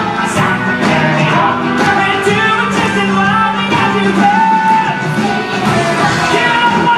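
Rock band playing a loud rock song with a lead singer holding long sung notes.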